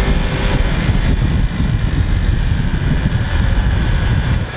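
Loud, steady road noise: a motor vehicle running, with a heavy low rumble of wind on the microphone. The rumble drops off just at the end, when speech resumes.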